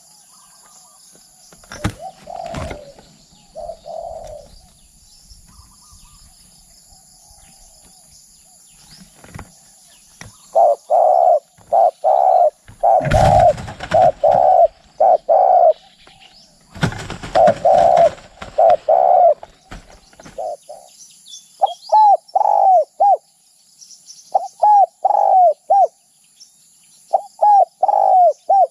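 Spotted dove cooing: after about ten seconds of near quiet, a run of low, quick coos in short phrases that carries on to the end. Two loud rustling bursts break in about halfway through. A faint high hiss runs behind.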